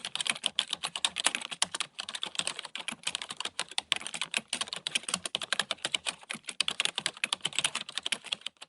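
Typing on a computer keyboard: a fast, uneven run of key clicks that starts suddenly and stops just before the end.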